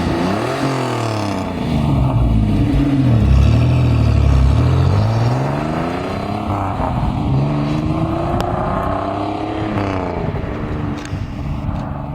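1988 Pontiac Fiero GT's 2.8-litre V6 through an aftermarket Ocelot exhaust with the catalytic converter deleted and ported exhaust manifolds, running loud with its pitch repeatedly falling and rising as the revs change.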